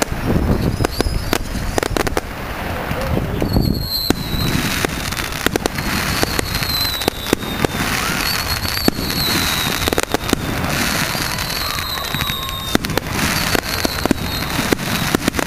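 Firework display: a dense, irregular string of bangs and crackles. From about four seconds in, a high whistle runs through it, falling slowly in pitch and starting afresh several times.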